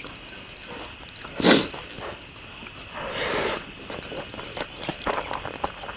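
Eating sounds: small wet clicks of chewing throughout, with two louder breathy bursts, one about a second and a half in and a longer one around three and a half seconds in. A steady high pulsing tone runs beneath.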